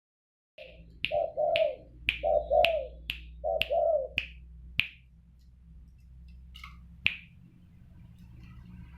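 Spotted dove cooing in three short phrases of two or three low, rounded notes, over a run of sharp clicks about twice a second that stop about five seconds in, with one more click near seven seconds. A steady low hum sits underneath.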